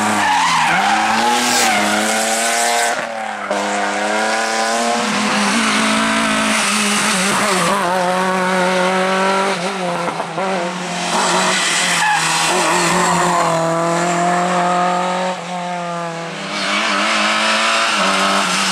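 Rally car driven flat out, its engine revving up and dropping back again and again through gear changes, with tyres skidding and squealing on the stage.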